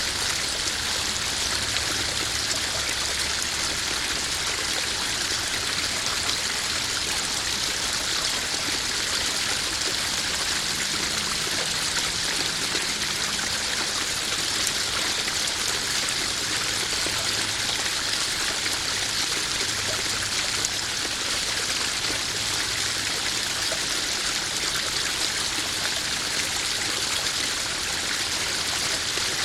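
Garden koi pond waterfall: water falling and trickling steadily into the pond.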